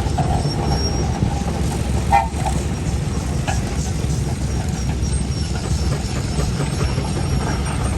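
Old steam traction engine running with a steady low rumble. A short higher tone sounds about two seconds in.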